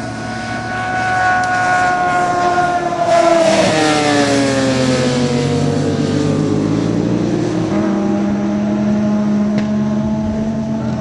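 Racing sport-bike engines running at high revs on track. One engine note sweeps down in pitch from about three and a half to seven seconds in as a bike goes past, then a steady high engine note starts at about eight seconds.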